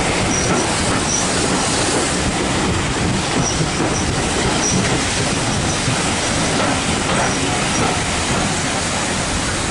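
A train running along the track, heard from on board: a steady rumble of wheels on rail, with faint high squeaks now and then.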